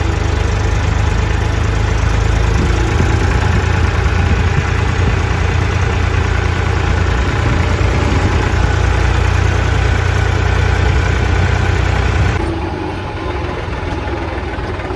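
Farm tractor's diesel engine running steadily, loud and close, with a heavy low rumble. About twelve seconds in the sound drops a little and changes character.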